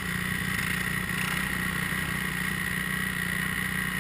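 Dirt bike engine running steadily, without revving.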